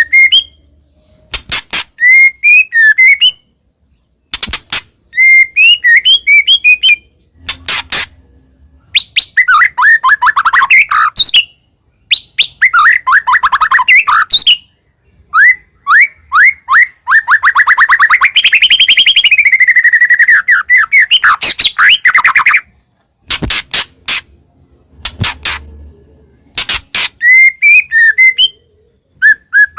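White-rumped shama (murai batu) singing loudly in varied phrases of whistled notes, fast trills and sharp clicks, separated by short pauses, with one long fast trill in the middle.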